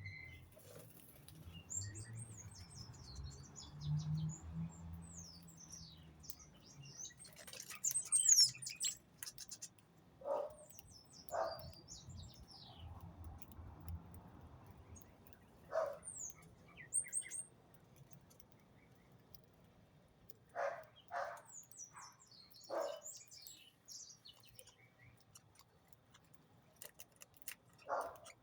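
Small birds chirping and twittering in quick, high, falling trills, with about a dozen short, lower-pitched calls scattered among them.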